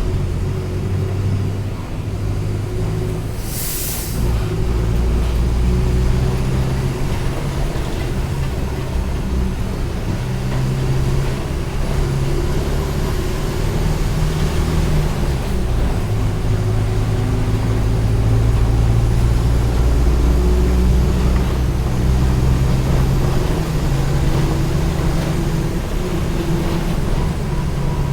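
Mercedes-Benz OF-1722M bus's diesel engine running, its pitch rising and falling as it changes speed and gear, with a short hiss of air about four seconds in.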